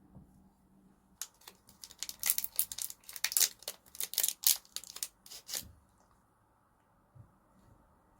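Packaging being crinkled and torn by hand: a rapid, irregular run of sharp crackles lasting about four seconds.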